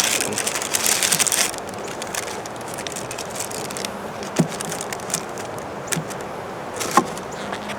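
Handling noise from working sugar fondant onto a wooden beehive: about a second and a half of rustling and crackling, then a few scattered light knocks, over a steady outdoor background.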